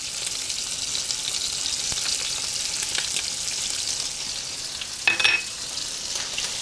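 Shrimp, onion and garlic sizzling and crackling in hot olive oil in a skillet as they are sautéed, with a brief louder utensil sound against the pan about five seconds in.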